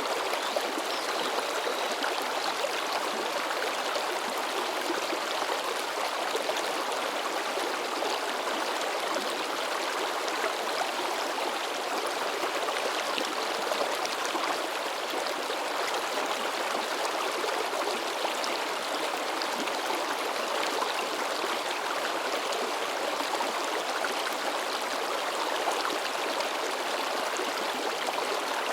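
A mountain stream babbling and splashing over rocks, a steady rush of running water with constant small splashes and gurgles.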